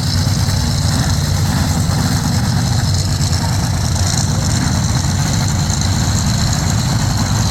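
Methanol-fuelled show truck engines of about 2,000 horsepower each, idling loud and steady as they warm up.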